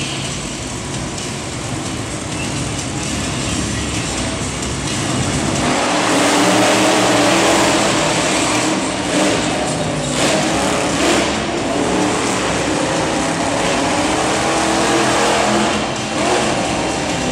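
Monster truck engines running at high revs, growing louder about six seconds in, with a few sharp knocks in the middle.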